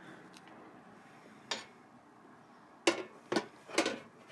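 A thermos being handled and fitted into a lunchbox. There is a light click about a second and a half in, then a run of four or so hard knocks and clatters as it goes in.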